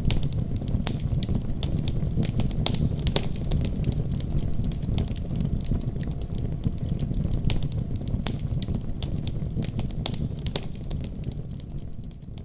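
Wood fire burning in a fireplace: a steady low rumble of flames with frequent irregular sharp crackles and pops, fading down near the end.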